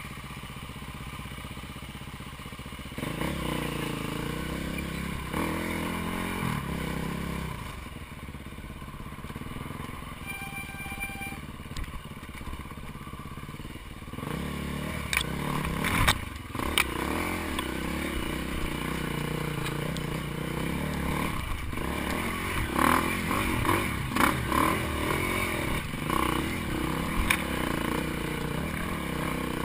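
Dirt bike engine running, getting louder about three seconds in and again around the middle, with a few sharp knocks shortly after.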